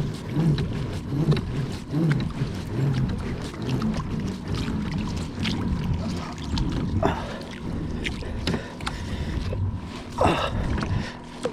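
Water sloshing and knocking around a kayak, with wind on the microphone, scattered small clicks and two short squeaks about seven and ten seconds in.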